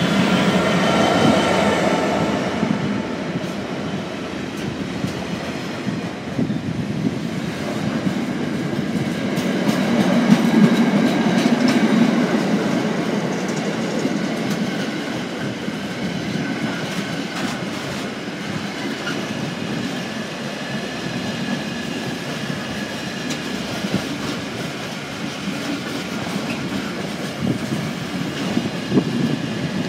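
A British Class 66 diesel freight locomotive passes at the start, followed by a long string of flat container wagons rolling through. There is a steady rumble of wheels on rail with repeated clattering clicks, swelling about ten seconds in.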